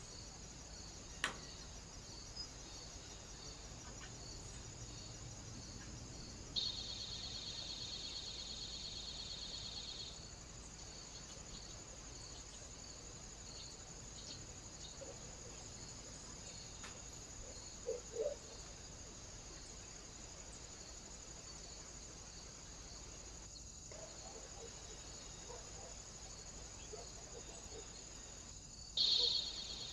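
A steady high-pitched whine with a faint, even pulsing, which grows louder for a few seconds starting and stopping abruptly, and again near the end. A sharp click comes about a second in, and a couple of faint knocks come around the middle.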